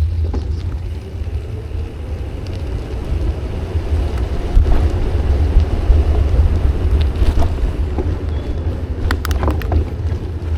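Wind buffeting the microphone while cycling along the trail, a steady low rumble with a noisy rush above it, with a few sharp clicks near the end.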